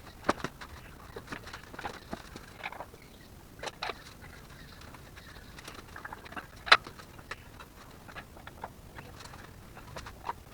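Scattered, irregular clicks, taps and knocks of tools and parts being handled during an engine pull, with one sharper knock about two-thirds of the way through.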